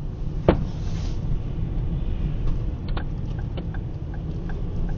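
Steady low engine and road rumble inside a moving car, with a sharp click about half a second in and light, evenly spaced ticks from about three seconds on.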